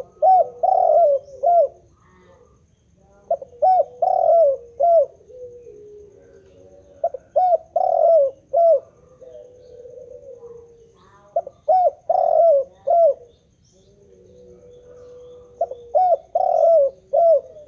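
Spotted dove cooing: five phrases of about four short coos each, repeating roughly every four seconds, with a softer drawn-out note between phrases.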